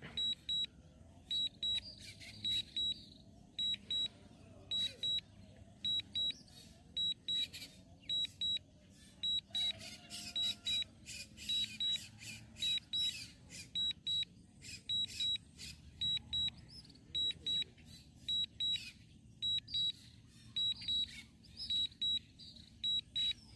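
Low-battery alarm on a DJI drone's controller: short, high beeps, mostly in pairs, repeating about once or twice a second without a break. It warns that the DJI Mini 3 Pro's battery is critically low as it comes back to land.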